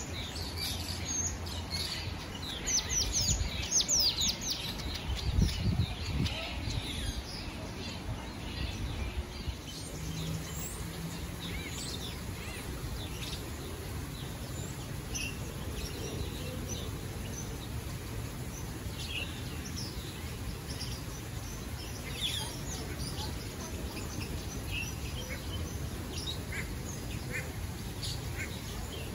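Small birds chirping: a flurry of quick falling chirps a few seconds in, then scattered single chirps over a low steady rumble.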